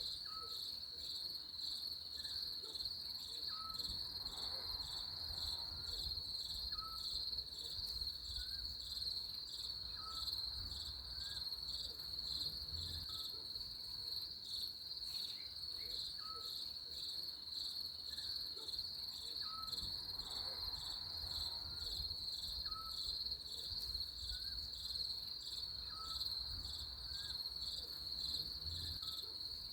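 Steady high-pitched chorus of crickets trilling without a break, with short quieter chirps repeating every second or two beneath it and a faint low rumble.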